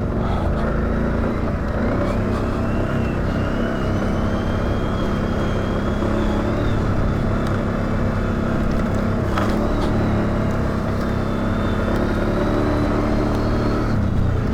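ATV engine running steadily while riding along a trail, with a thin high whine that slowly rises in pitch over the first half.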